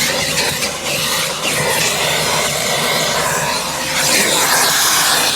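Vacuum cleaner running with a loud, steady rushing hiss as its nozzle is worked over the carpet under the car's front seats.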